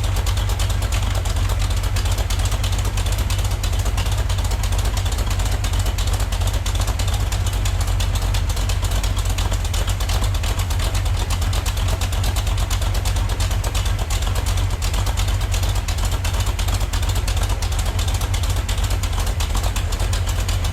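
Mopar 440 big-block V8 with a Comp Cams Thumpr hydraulic roller camshaft running steadily on an engine run stand during its run-in, just after firing up.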